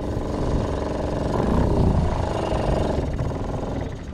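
Small outboard motor on a fishing boat running steadily, with a brief rise and fall in pitch about a second and a half in; it drops away near the end.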